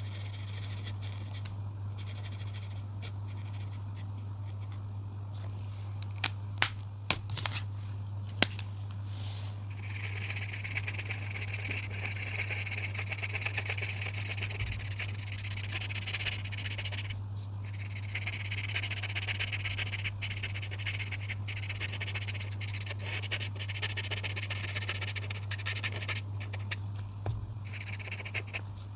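Coloring strokes scratching and squeaking on paper, continuous from about a third of the way in with short pauses where the tool lifts, after a few sharp clicks. A steady low hum runs underneath.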